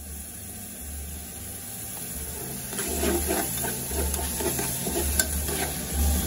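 Chopped tomatoes and onions sizzling in oil in a stainless steel pot. From about halfway in, a metal spoon stirs and scrapes against the pot in quick repeated strokes.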